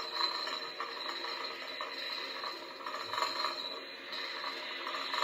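O scale model train running on its track: a steady mechanical clatter with a thin high whine and a slow, even pulse.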